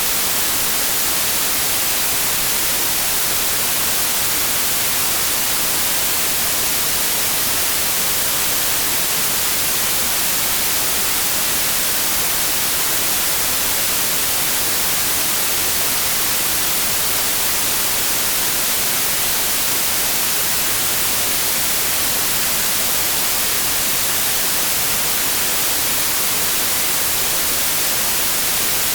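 Steady generated white noise: an even hiss, strongest in the highs, with no change at all.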